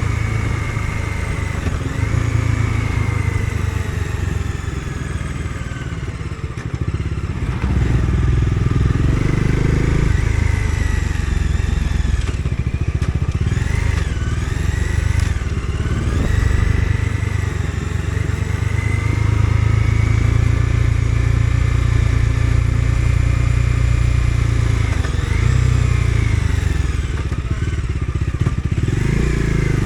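Bajaj Dominar 250's single-cylinder engine under way, its pitch rising and falling several times as the rider accelerates, shifts and eases off.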